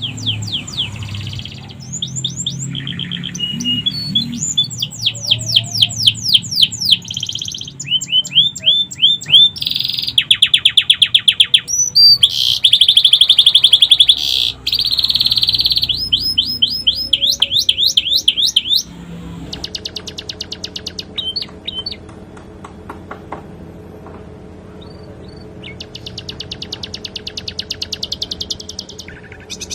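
Domestic canary singing a long, varied song of fast trills, runs of rapid rising notes and buzzy rolls, with phrases learned from the sikatan londo.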